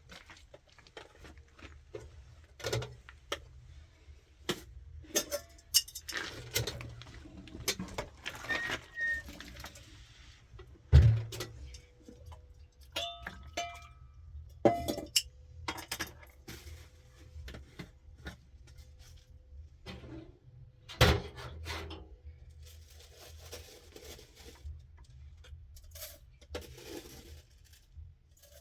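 Objects being handled and set down: scattered knocks and clinks, a few short metallic rings near the middle, and stretches of scraping. There are two heavier thumps, about a third and about three quarters of the way through.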